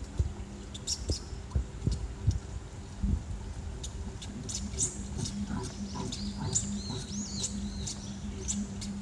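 Small birds chirping: scattered short high chirps, with a quick run of warbled notes about six seconds in, over a steady low hum.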